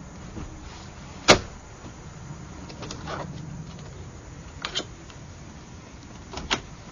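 Minivan swivel-seat latches and fittings clunking and clicking as the second-row seats are turned around: a sharp clunk about a second in, softer clicks around the three- and four-and-a-half-second marks, and another clunk near the end.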